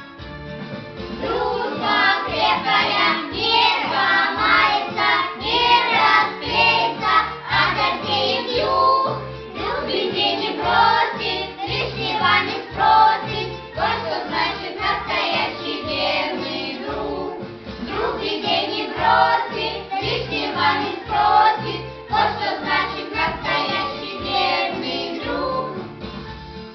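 A group of children singing a song together over musical accompaniment with a steady beat.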